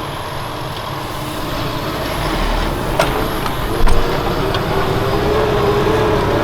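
Valtra T191 tractor engine running under work, getting gradually louder, with a whine coming in about halfway through. Two short clicks or knocks come about a second apart in the middle.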